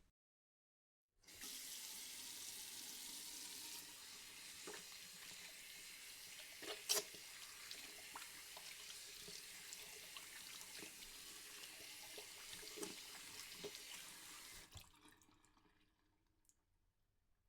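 Water running from a tap into a sink: a steady hiss with small drips and splashes, starting about a second in and fading out near the end.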